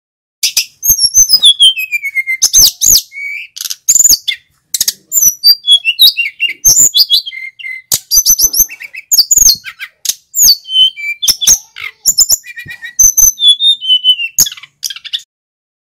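Male sikatan gunung (a hill flycatcher) in full song: a loud, fast, unbroken run of varied high whistled notes, many of them sweeping downward, starting about half a second in.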